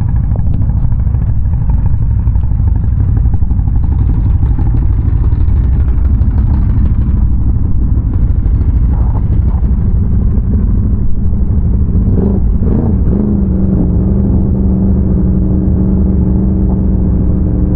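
ATV engine running while riding, over a heavy low rumble and rattling. About two-thirds of the way through, the engine note rises and falls briefly, then holds steady.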